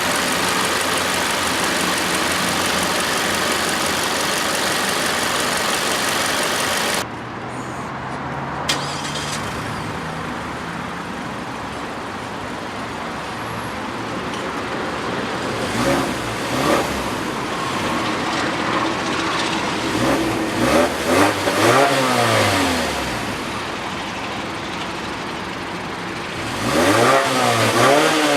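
Mazda 6's four-cylinder engine being revved: it runs loud and high for the first several seconds, drops away abruptly about seven seconds in, then settles lower and is blipped up and back down several times, the pitch rising and falling with each rev.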